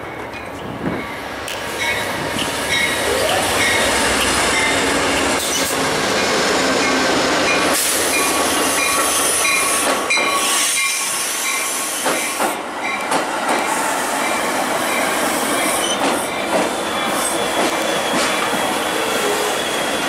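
Metra bilevel push-pull commuter train rolling into the station cab car first and slowing, with loud steady rail and wheel noise and squealing wheels as the cars pass close by.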